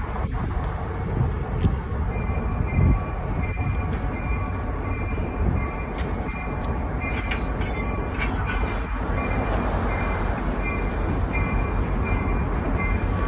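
Chesapeake and Delaware shortline freight train rolling past, a steady low rumble of the locomotive and cars on the rails. There are several sharp clicks along the way and a faint, steady high tone above the rumble.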